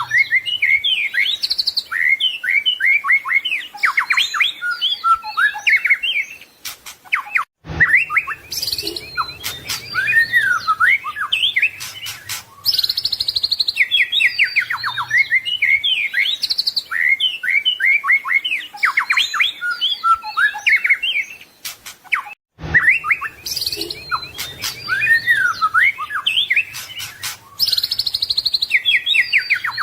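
White-rumped shama (murai batu) singing a continuous, varied song of rapid whistled phrases and trills, with two brief breaks about 8 and 23 seconds in.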